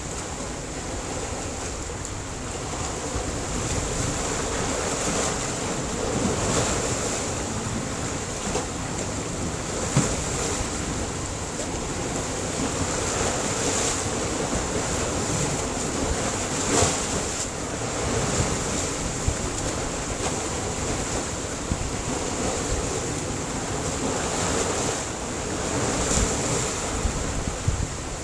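Sea surf breaking on a rocky shore: a steady wash of waves that swells every few seconds, with the sharpest crashes about ten and seventeen seconds in.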